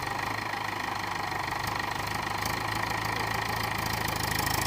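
Mahindra 415 DI tractor's diesel engine running steadily with a fast, even diesel clatter, growing slightly louder through the stretch.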